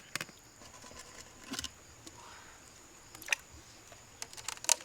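Freshwater mussel shells clicking and scraping as they are handled, in a few short sharp clusters, the busiest near the end.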